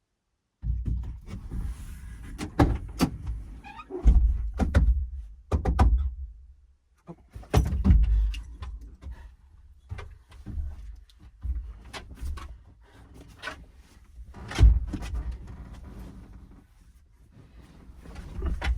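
Irregular knocks, thumps and scraping of things being handled and moved, starting suddenly about half a second in. The loudest thumps fall near the middle and again about a third of the way from the end.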